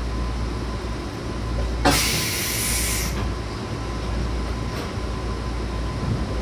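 105 series electric multiple unit, a steady low rumble with a faint steady whine. About two seconds in, a loud hiss cuts in and lasts about a second.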